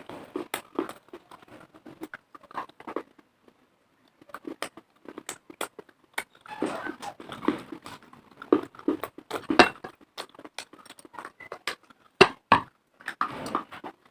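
Dry baked clay and chalk being bitten and chewed: an irregular run of sharp crunches and clicks, loudest in a cluster past the middle.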